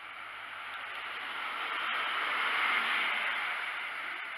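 Class 43 HST power car drawing slowly into the platform and passing close by: a steady rushing noise that swells to its loudest about three seconds in, then eases as the power car goes past.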